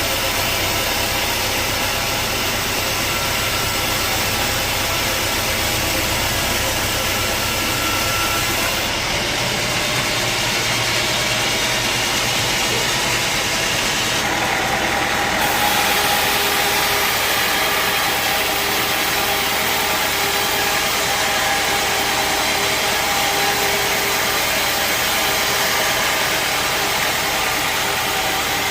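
Sawmill wheel saw and its motor running, loud and steady, with a change in tone about nine seconds in and again about fourteen seconds in.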